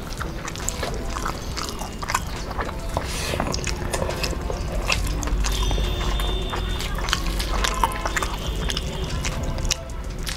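Close-up eating sounds of people eating rice and curry by hand: wet chewing and lip smacks, with irregular small clicks as fingers mix the rice on the plates.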